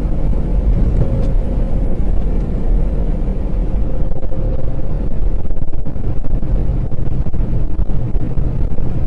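Steady low rumble of a moving vehicle, engine and road noise, with a faint steady hum.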